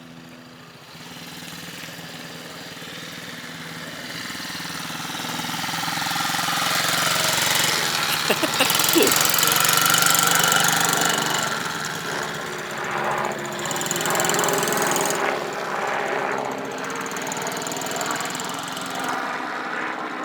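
SSR 110 pit bike's small single-cylinder four-stroke engine running, getting steadily louder over the first ten seconds or so as the bike comes closer, then holding at a steady level.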